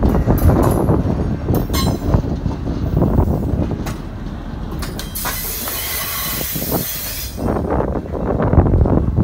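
Loaded CSX open rock hoppers rolling slowly past, the steel wheels rumbling on the rail with scattered clanks and clicks. About five seconds in, a high hissing screech from the wheels runs for about two seconds.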